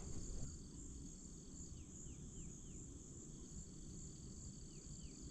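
A steady, faint chorus of crickets trilling high and continuously, with a few short, falling bird chirps in little groups of two or three, and a low rumble underneath.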